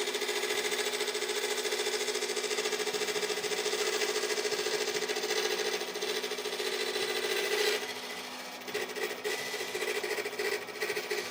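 Electric power tool running with a steady motor hum and a fast rattling pulse. It drops back about eight seconds in and runs unevenly after that.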